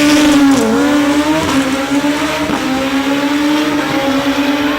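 Drag-racing motorcycle engine revved and held at a steady high pitch, dipping briefly about half a second in.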